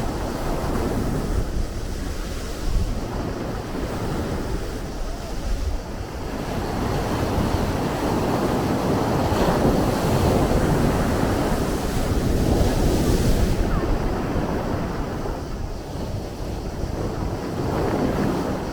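Sea waves washing in and rushing against the shore, with a swell that builds to its loudest in the middle. Wind buffets the microphone throughout.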